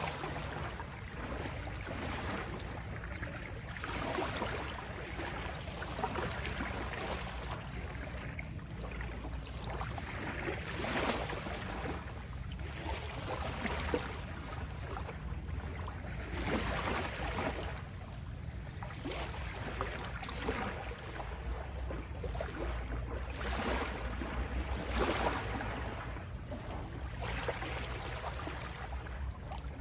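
Small sea waves lapping and washing on a shore, each gentle surge rising and falling every two to three seconds.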